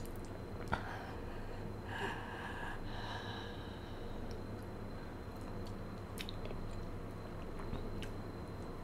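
Wet mouth sounds of chewing a chocolate-covered marshmallow bear: sharp wet clicks and smacks of tongue and lips, the loudest about a second in. A brief pitched throat sound comes about two seconds in.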